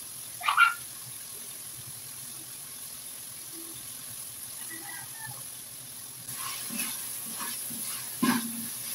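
Meat sizzling in an aluminium wok over a gas burner, with a short sharp sound about half a second in. From about six seconds a spatula stirs and scrapes the meat against the wok, with a knock near the end.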